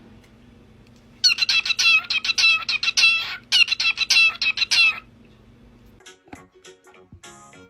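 A chicken clucking in two quick runs of short, repeated, high-pitched calls, with a brief pause between them. Music starts near the end.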